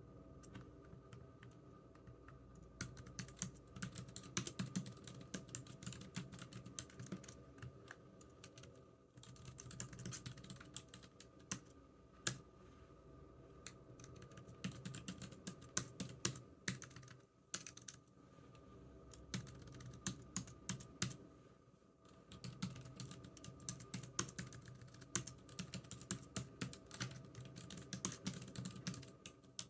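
Computer keyboard typing: quick runs of key clicks, broken by short pauses, over a faint steady hum.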